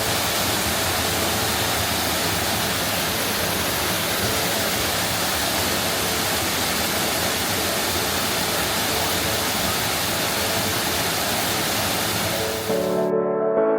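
Steady, even rushing noise of running water, unchanging throughout; music comes in near the end.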